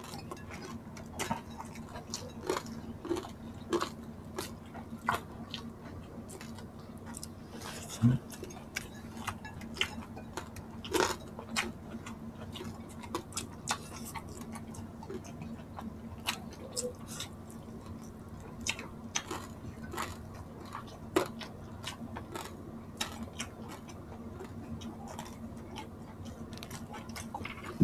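Close-miked eating sounds: chewing, mouth clicks and smacks, and irregular sharp crunches of crispy fried pork, over a steady low hum.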